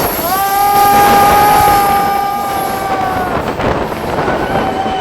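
Passenger train's wheels squealing on the rail: a steady high-pitched squeal with a couple of overtones, starting just after the beginning and fading out about three and a half seconds in, with a brief fainter return near the end, over the steady rumble of the coach running on the track.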